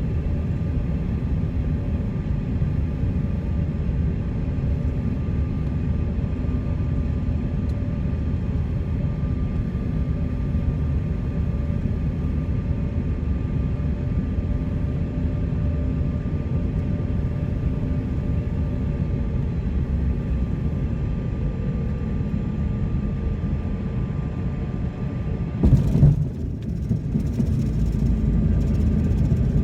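Cabin noise of a CRJ-200 regional jet landing: a steady rumble of engines and airflow with a faint tone drifting slightly lower. About 26 seconds in, a short jolt as the wheels touch down, then a louder rumble as the jet rolls out on the runway.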